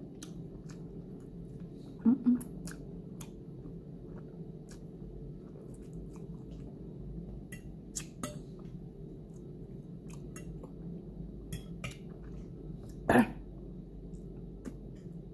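Close-up chewing and mouth sounds of someone eating fried dumpling and salt mackerel, with scattered small clicks over a steady low hum. Two brief louder sounds come about two seconds in and again near the end.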